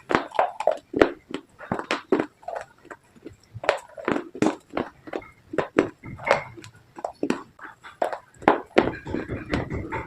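Close crunching of slate pencil and baked clay pieces: irregular sharp crunches, several a second, with no pauses.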